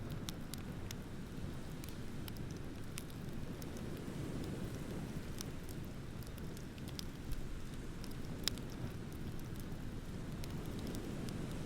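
Wood bonfire crackling with scattered sharp pops, over a steady low rush of ocean waves; the loudest pop comes about eight and a half seconds in.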